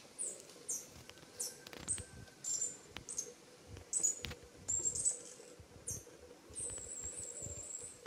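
Small birds giving short, high, thin chirps every half second or so, ending in a quick trill of notes near the end, over low bumps and rustles of the camera being moved about close to dry ground.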